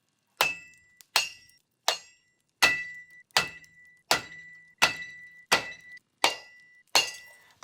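A silversmith's hammer striking silver on a metal block, about ten steady blows a little under a second apart, each one leaving a short metallic ring.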